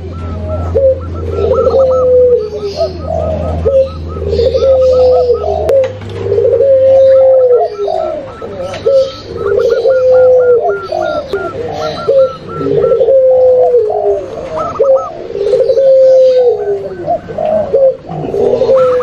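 Layered recordings of doves cooing together, a mix of zebra dove, spotted dove and puter pelung (ringneck dove). A falling coo repeats about every two seconds, with a quicker, higher trilling coo over it and light chirping above. A low hum runs underneath and changes about six seconds in.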